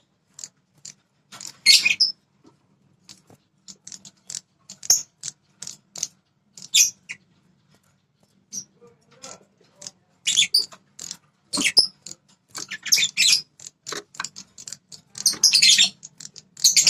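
A prenjak kepala merah (a small songbird) calling in short, sharp, high chirps. The notes come one at a time and spaced out at first, then in quicker clusters from about ten seconds in.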